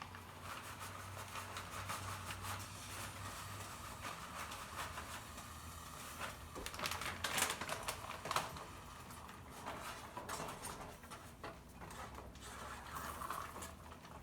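A spoon stirring thick cheesy dip in a pot, with faint scraping and irregular light knocks against the pot, more of them about halfway through. A low steady hum runs underneath.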